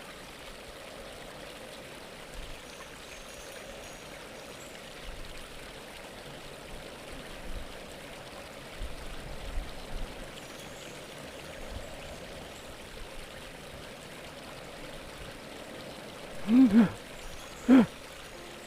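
Steady running water, like a stream, throughout. Near the end, a person's voice makes two or three short, loud vocal sounds.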